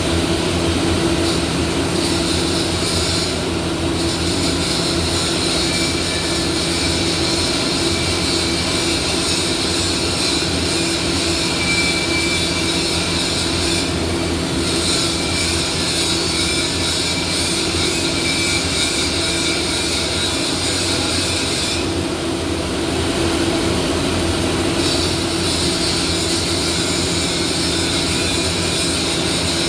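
Arc welding in a workshop: a steady crackling hiss from the welding arc over a constant hum of machines and fans. The arc hiss stops briefly three times: near the start, about halfway through, and for a few seconds about three-quarters of the way in.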